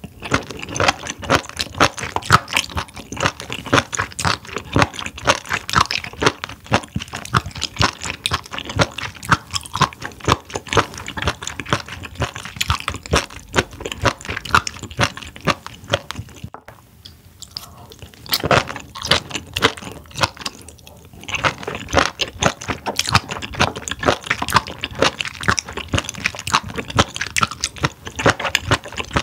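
Close-miked chewing of spoon worm: a dense run of wet chewing clicks, with a short lull a little past halfway.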